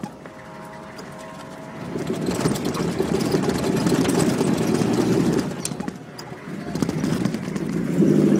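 Competition 4x4's engine running with the vehicle nearly stopped. Its sound swells for a few seconds, dips, then rises again near the end.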